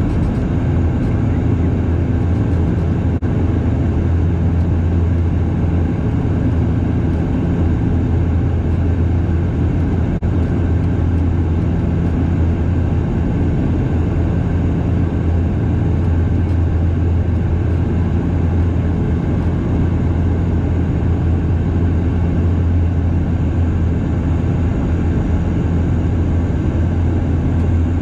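Steady low propeller drone and engine noise inside the cabin of a Bombardier DHC8-Q400 turboprop in flight, a constant deep hum over even rushing air noise.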